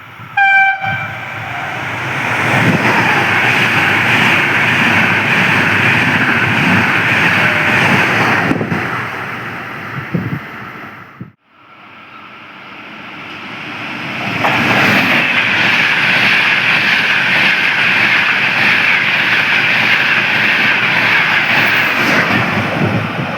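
A train gives a short horn blast and rushes through at speed with a loud rumbling noise; the sound cuts off suddenly about eleven seconds in, and a second train builds up and passes at speed.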